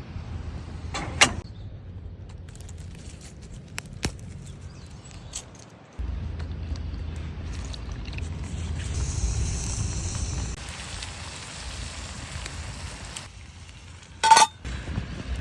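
Campfire cooking in a paella pan: a steady low rumble with a hissy patch partway through, and two sharp metal knocks, a small one about a second in and a loud one near the end.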